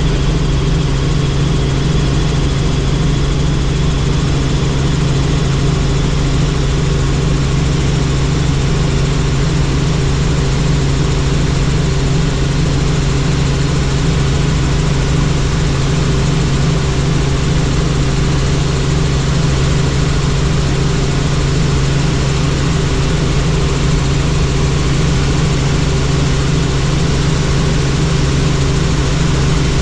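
Helicopter in flight: a loud, steady drone of rotor and engine with a strong low hum that pulses quickly and evenly with the blades.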